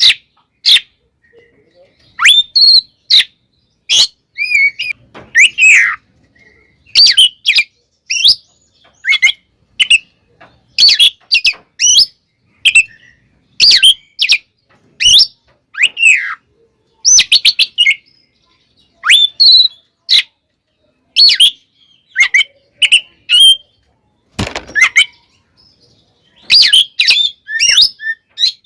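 Oriental magpie-robin singing a loud, aggressive 'fighting' song: short, sharp whistled phrases and quick sweeping notes, delivered in rapid bursts with brief pauses between them. One harsher, noisier burst comes near the end.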